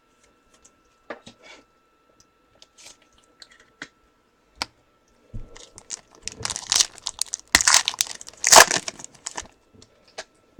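Plastic trading-card pack wrapper being torn open and crinkled. A few light clicks and handling sounds come first, then a few seconds of crackling about halfway through.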